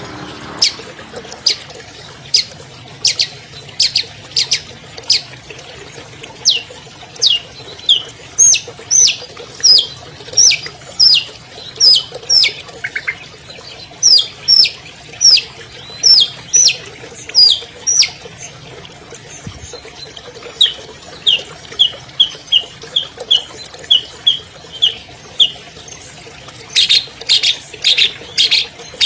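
Long-tailed shrike (cendet) singing: a string of sharp, clipped notes. They start as short clicks about one a second, turn into downward-slurred whistles about two a second, then a run of quicker short notes, and end in a dense rapid burst near the end.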